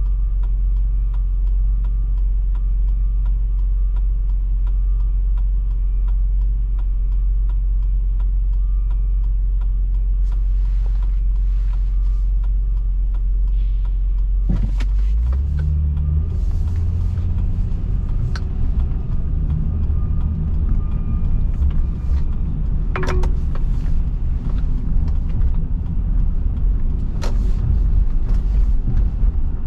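Low, steady rumble of a car being driven. About halfway through the rumble changes to a rougher, fuller sound, and a few sharp clicks stand out over it.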